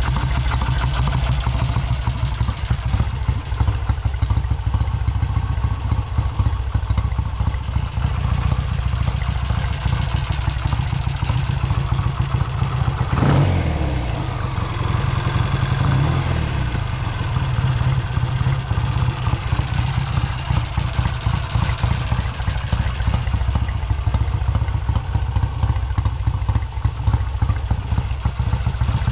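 1972 Triumph Bonneville's parallel-twin engine running steadily, with a brief change in the engine note about halfway through.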